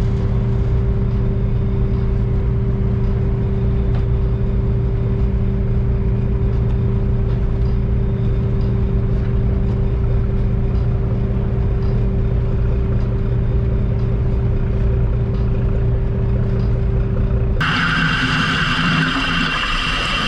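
Fishing boat's engine running steadily at one constant pitch. About three-quarters of the way through, the sound changes abruptly to a brighter, noisier engine sound.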